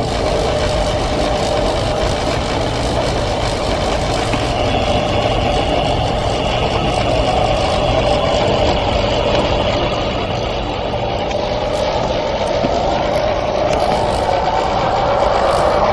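Overhead power lines making a strange, continuous droning whine that wavers slowly in pitch, with a steady rushing noise under it.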